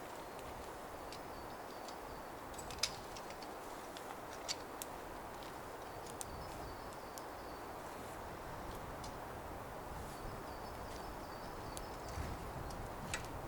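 Forest ambience: a steady rushing noise, a faint high bird call repeating about every four seconds, and a few scattered sharp clicks.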